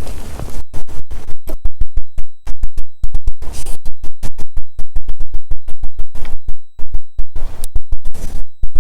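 Loud, distorted crackling: rapid clicks, several a second, with a few short bursts of hiss, from a badly connected microphone.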